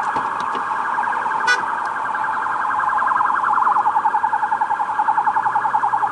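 Police car siren on a rapid warble, its pitch trilling quickly up and down many times a second, turning choppier and more pulsing about halfway through.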